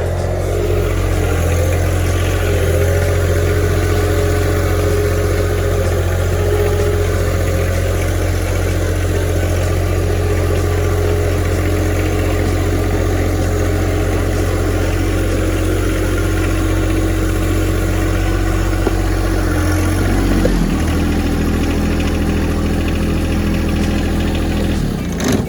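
Tractor engine running steadily, its note dipping briefly about twenty seconds in.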